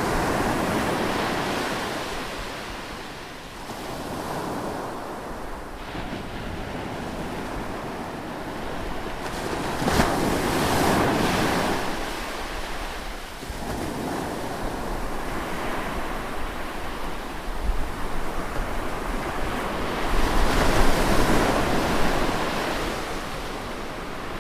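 Ocean waves surging and breaking, with three larger waves crashing about ten seconds apart and a softer wash of surf between them.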